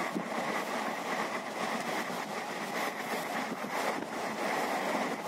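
Moving passenger train heard from on board: a steady rushing of wheels on rails and passing air, with faint irregular clicks from the track.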